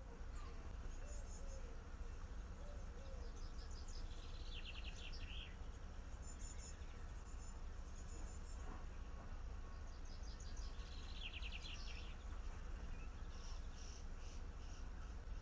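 Small garden songbirds calling and singing, with two rapid trills of short repeated high notes, about four seconds in and again about ten seconds in, among scattered chirps over a steady low hum.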